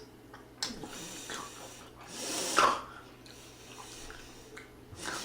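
Close-up eating noises from a person eating stew: a few small clicks and smacks, then one loud sucking intake that builds and peaks about halfway through.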